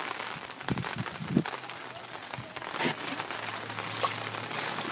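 Rain falling steadily, with sharp taps of individual drops hitting hard surfaces close by.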